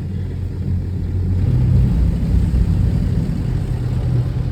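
Low, steady rumble and hum of an automatic tunnel car wash's machinery heard from inside the car, growing louder about a second and a half in.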